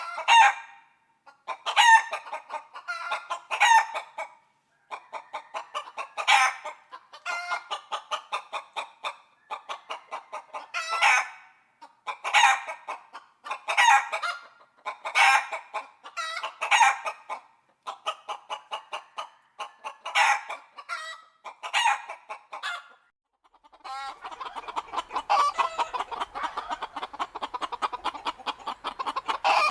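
Chickens clucking in runs of quick short notes, each run ending in a louder call and repeating every second or two. Near the end this gives way to a denser, continuous clucking of several birds together.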